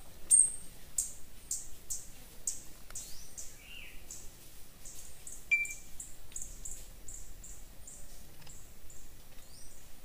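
Birds calling: a short high chirp repeated about twice a second, with a few other brief calls in between.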